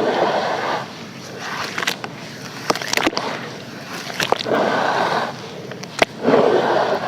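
Pressed sand and charcoal crumbling and scraping: bursts of gritty noise a second or so long, with a few sharp clicks or snaps between them.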